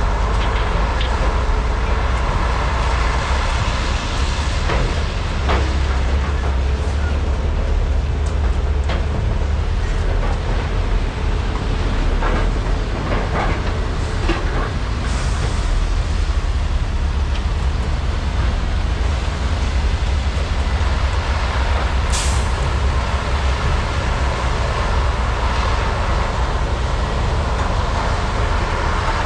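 Heavy hydraulic excavators' diesel engines running under load, a steady deep rumble, with a few faint knocks scattered through and one short sharp hiss about 22 seconds in.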